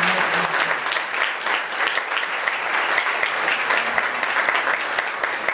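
A congregation applauding: many hands clapping together, with single claps standing out more near the end as it thins.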